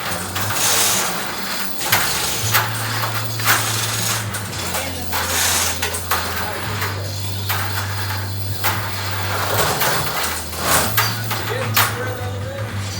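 Metal clanks, knocks and scraping from rigging and moving a large steel hot water storage tank, over a steady low hum.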